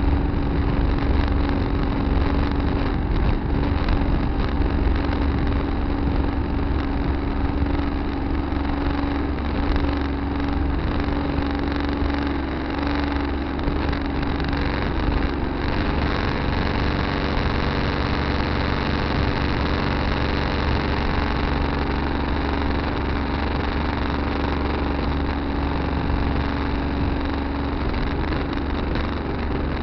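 Tractor engine running steadily, heard from a dash camera in the cab.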